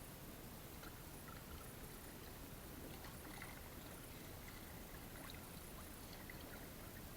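Faint river water lapping and trickling, with scattered soft ticks over a steady hiss.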